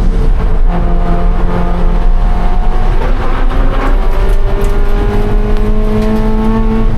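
A Scion FR-S's 2.0-litre flat-four engine pulling under acceleration, its pitch climbing slowly, over steady loud road and wind noise.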